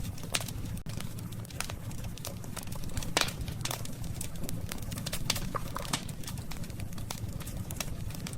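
Wood campfire crackling: irregular sharp snaps and pops over a steady low rumble, with the loudest pop about three seconds in.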